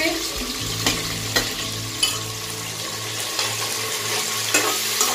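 Onion, tomato and green chillies sizzling in hot oil as they are stirred in the pan. A spoon knocks sharply against the pan about four times.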